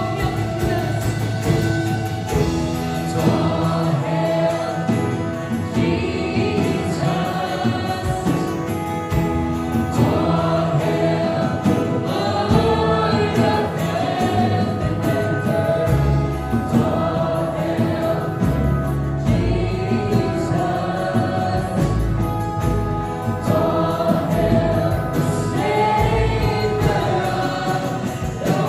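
Worship song sung by a group of voices over sustained instrumental backing, continuing steadily.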